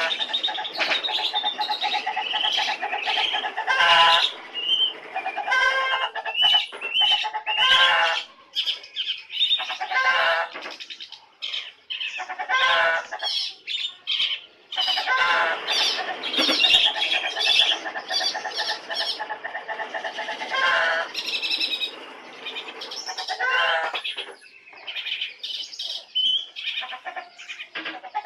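Songbird singing a rapid, varied song of chirps and trills in long runs, broken by brief pauses.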